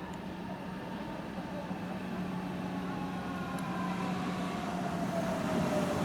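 Approaching train, its running noise growing steadily louder, with a steady low hum and a whine that slides down in pitch.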